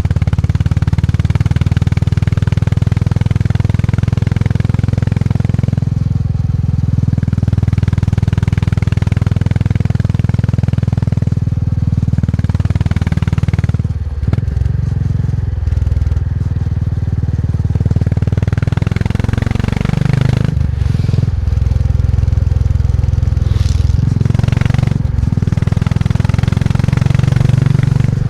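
Motorcycle engine running under way, with a loud, steady low exhaust note. The revs dip and pick up again a few times, around halfway and again about two-thirds of the way through.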